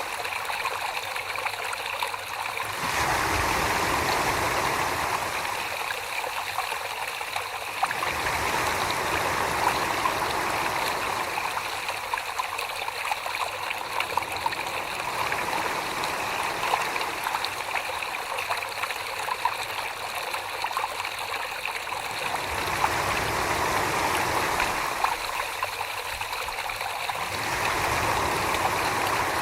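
Wet clay turning on a potter's wheel under wet hands: a steady, watery swishing that changes character every few seconds.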